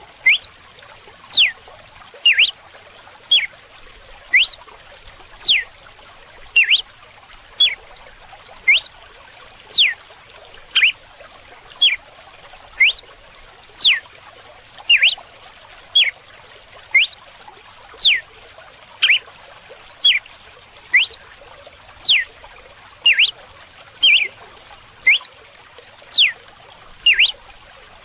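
Red-cowled cardinal (galo-de-campina) singing its whip-like 'açoite' song: sharp notes about once a second, with quick high down-sweeps alternating with shorter lower chirps. Steady trickling running water underneath.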